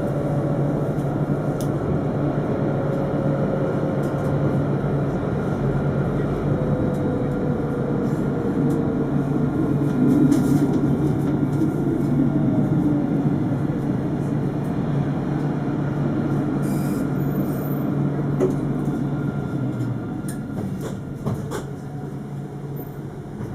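Alstom Citadis 402 tram running: steady rolling rumble on the rails with the traction motors' whine gliding in pitch, easing off in the last few seconds as the tram slows.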